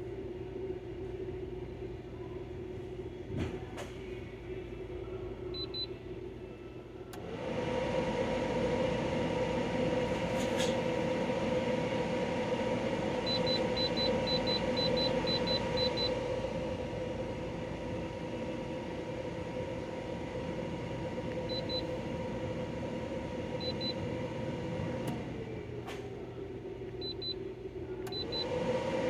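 Portable air conditioner running with a steady motor hum. About seven seconds in the hum steps up sharply in pitch and loudness, drops back to the lower hum a few seconds before the end, then rises again. Faint short beeps sound several times along the way.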